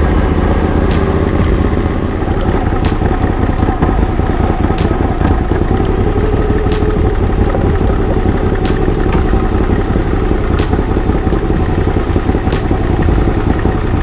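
Moto Guzzi V85 TT's transverse V-twin engine running steadily on the move, with a sharp tick about every two seconds.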